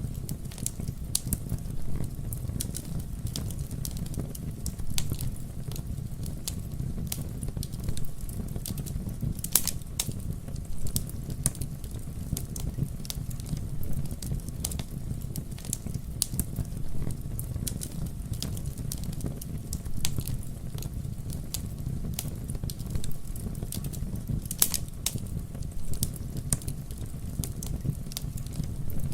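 Campfire crackling: a dense run of small pops and snaps over a steady low rumble of burning wood, with two sharper pops, about ten seconds in and again about twenty-five seconds in.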